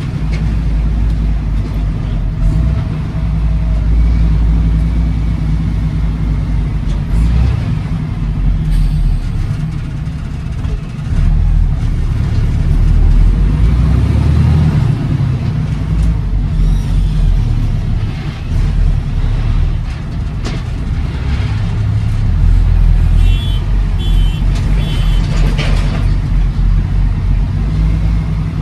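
Diesel semi-truck heard from inside the cab while driving: a heavy, steady low engine rumble that swells and eases with the throttle. Near the end comes a short run of high electronic beeps.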